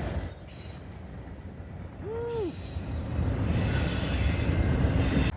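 Via Rail passenger train running past, with a steady low rumble of wheels on the rails. A short tone rises and falls about two seconds in, and a high-pitched wheel squeal comes in about three and a half seconds in.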